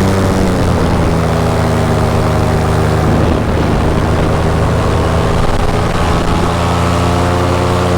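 Paramotor engine and propeller running steadily in flight, heard from the pilot's harness. The engine note sags slightly just after the start and climbs again near the end as the throttle changes.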